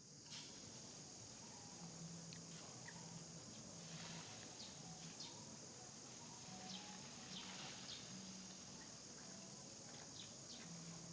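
Faint outdoor ambience: a steady high-pitched insect drone, with scattered small clicks and short high chirps and a low hum that comes and goes.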